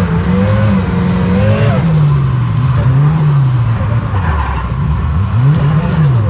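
Turbocharged Nissan CA18 four-cylinder engine revving hard under load as the car drifts, its pitch rising and falling several times, with a sharp drop and climb near the end.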